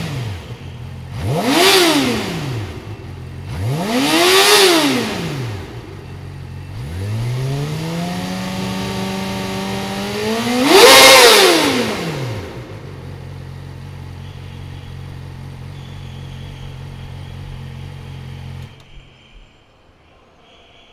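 Yamaha YZF-R6 inline-four revving through an Akrapovič slip-on exhaust: two quick throttle blips, then a rev held steady for about two seconds that climbs to a sharp, loudest peak. It drops back to a steady idle and cuts off suddenly near the end.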